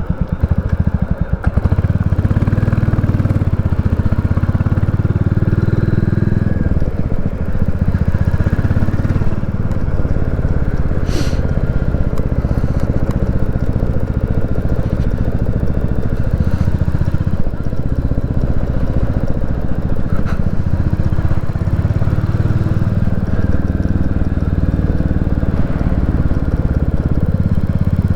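Royal Enfield Classic 350's single-cylinder engine running as the motorcycle is ridden, getting louder about a second and a half in and then holding a steady note.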